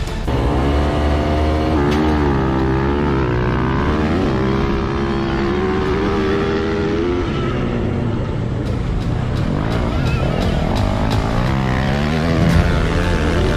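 Dirt bike engine revving, its pitch swinging up and down repeatedly, as if the throttle is blipped and held.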